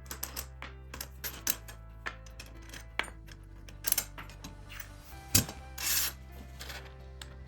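Light clicks and knocks of small hard parts being handled, with a sharp louder knock a little past five seconds and a short rushing noise just after, over steady background music.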